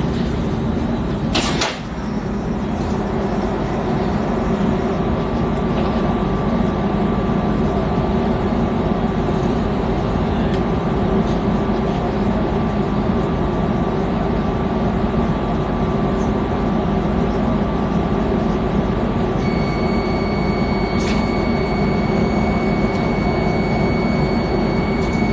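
X10 electric commuter train in motion: a steady rumble of wheels and running gear with a faint steady whine. A sharp knock comes about a second and a half in, and a higher whine joins near the end.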